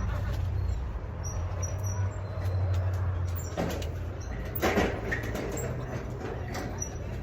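Nursery wagon rolling, a steady low rumble, with a couple of short rattling knocks about three and a half and four and a half seconds in.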